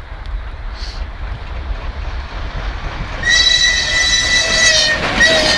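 Steam locomotive whistle blowing: one long high blast of about a second and a half, then a short second blast just after it, over the low rumble of the train.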